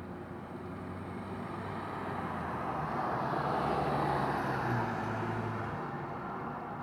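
A road vehicle passing by: engine and tyre noise swell to a peak about four seconds in, then fade away.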